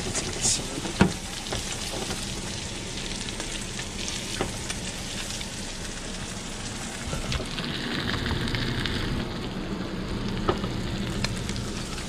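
Steelhead fillets sizzling steadily in melted butter in a frying pan, with a few sharp clicks through it.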